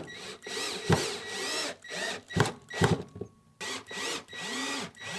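Power drill run in a series of short trigger bursts, its whine rising and falling in pitch with each burst, with a few sharp knocks between.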